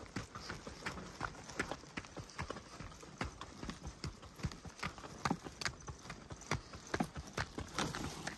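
Footfalls on a forest track: a steady run of sharp, uneven steps, about two to three a second.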